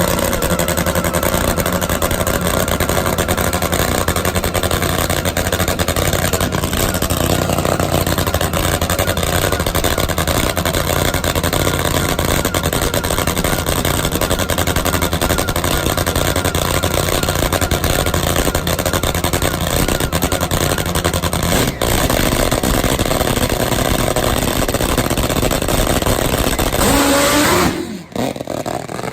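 Top Fuel nitromethane drag motorcycle engine running loud and steady. Near the end its pitch falls away and the sound drops off sharply.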